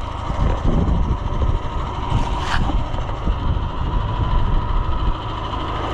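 Strong wind gusting on the microphone over a tractor engine running steadily, with a faint steady whine.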